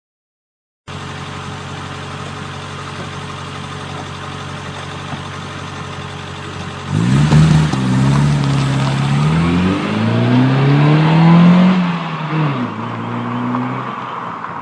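BMW E30 1.8-litre four-cylinder engine through a Supersprint performance exhaust, idling steadily, then revved up and down several times from about halfway through, with one more short rev before it settles back toward idle.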